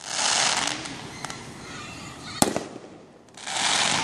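Fireworks going off: a sharp bang about two and a half seconds in, with bursts of crackling hiss near the start and again near the end.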